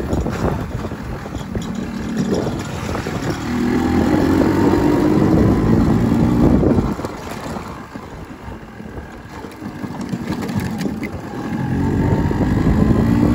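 Motorcycle engine running on the move. Its note grows louder and a little higher from about four to seven seconds in, eases off, then builds again near the end.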